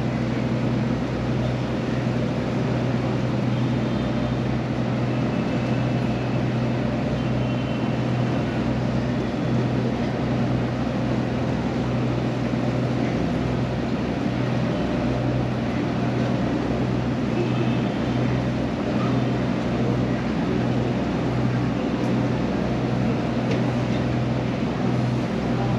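Passenger ferry's engine running steadily, a constant low drone with water and wind noise, heard on board.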